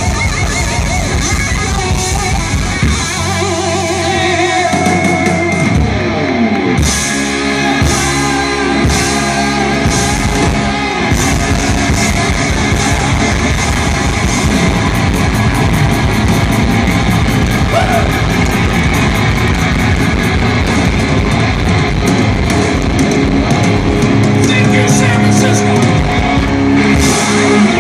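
Live rock band playing loud: electric guitar over a drum kit, with a run of hard drum hits about seven to eleven seconds in.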